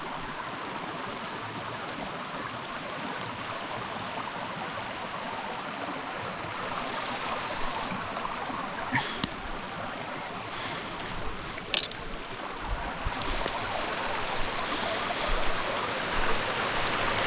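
Small mountain stream running over rocks, a steady rush of water that swells slightly toward the end. A few sharp clicks stand out around the middle.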